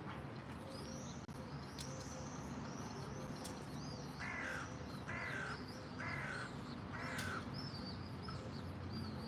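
A crow cawing four times, each harsh call about a second apart, over faint high bird chirps throughout.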